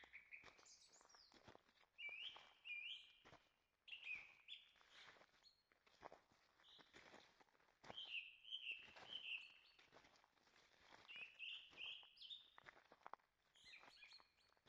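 Faint songbird chirping: repeated short, upward-sweeping notes, several birds calling on and off throughout, with soft irregular footsteps on the forest trail underneath.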